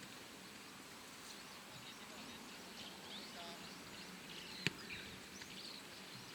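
Faint open-air background noise with scattered faint distant calls, and one sharp knock a little after the middle.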